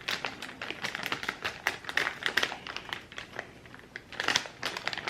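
Plastic packaging crinkling with irregular light taps and clicks, as slices of provolone cheese are unwrapped and laid on burgers.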